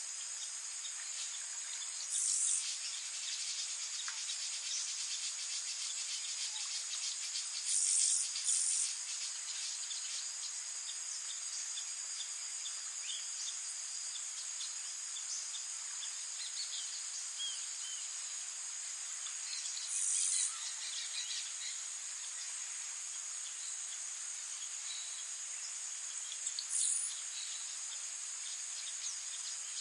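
Steady high-pitched chirring of insects, with faint scattered bird chirps. A few brief louder high bursts come about 2, 8, 20 and 27 seconds in.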